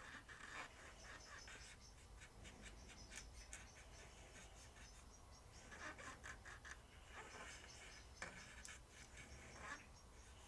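Faint squeaky rubbing with small scratches and clicks, as of a cloth scrubbing a small plastic toy part clean; otherwise near silence.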